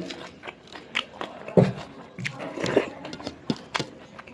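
A person chewing food close to the microphone: a string of short, sharp mouth clicks with a few louder bites.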